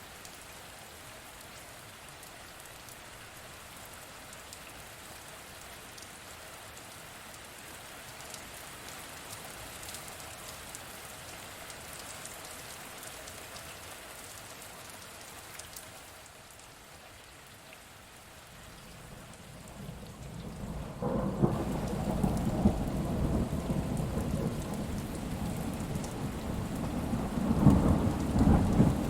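Steady rain falling, then about two-thirds of the way in a low rumble of thunder builds up and rolls on over the rain, loudest near the end.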